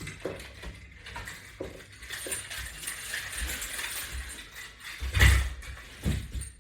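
Light metallic clinks and clicks from resistance-band exercise hardware being worked, with one heavier thump about five seconds in.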